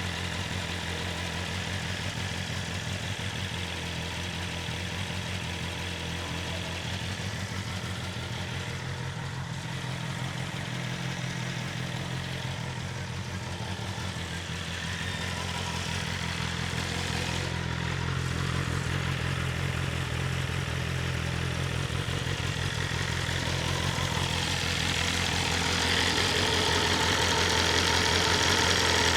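BMW S1000RR's inline-four engine idling steadily, warming up after a cold start, growing a little louder over the last few seconds.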